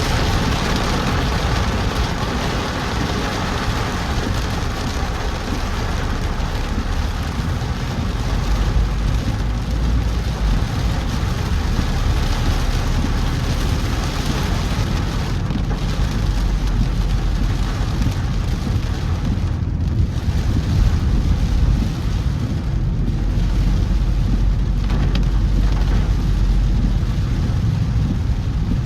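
Heavy monsoon rain with the steady low rumble of a car driving on a wet road.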